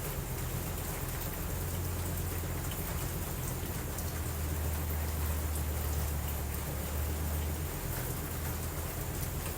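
Steady rain falling, an even hiss with scattered faint drop ticks over a low continuous rumble.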